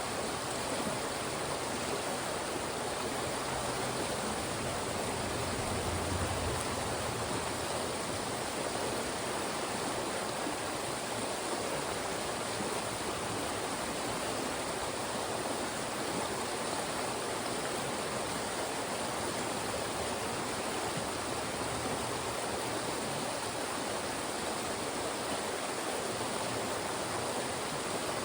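Fast-moving mountain stream rushing through funnels of rocks: a steady, even rush of water.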